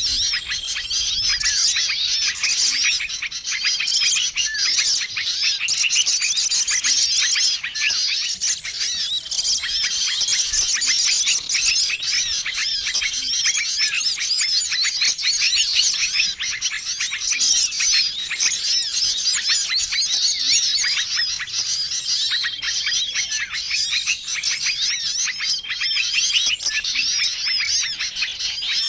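A dense, continuous chorus of many small songbirds chirping and twittering over one another, as in a bird-lure (pikat) call recording made to draw wild small birds. A short, level whistled note recurs every couple of seconds through the chatter.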